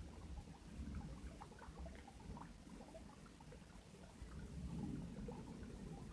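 Faint, scattered chirps of small birds over a steady low rumble.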